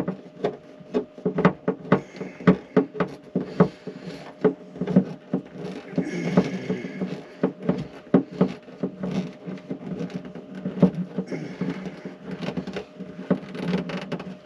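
Rapid, irregular clicking and tapping from screws being worked in by hand, over a steady low hum.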